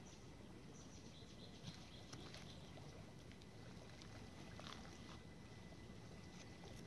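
Faint outdoor ambience: a steady low rumble with a few faint, short high chirps and ticks scattered through it.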